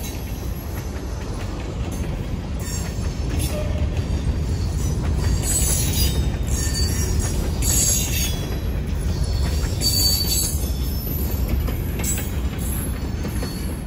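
Freight cars (covered hoppers and a tank car) rolling past on the rails: a steady low rumble of wheels on track, with brief high wheel squeals every two to three seconds.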